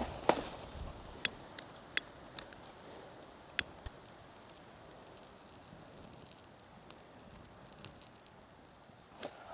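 Burning fire crackling: a few sharp, irregular pops over a faint steady hiss, most of them in the first four seconds.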